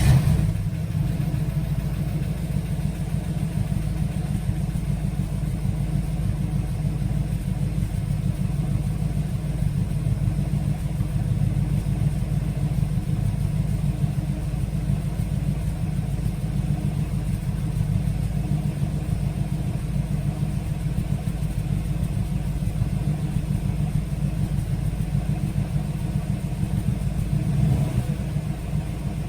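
1962 Chevrolet Corvette's 327 small-block V8 catching on a cold start and settling into a steady idle, swelling briefly near the end.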